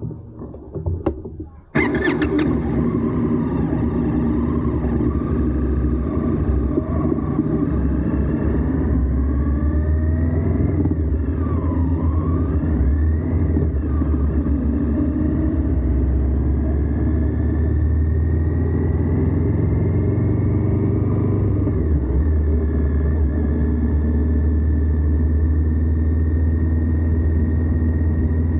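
Indian Scout's V-twin engine running on the move, heard close up from a camera on the lower crash bar, with a rumble of engine and road noise. The sound comes in suddenly about two seconds in after a couple of clicks, and the engine note rises and falls as the bike speeds up and eases off.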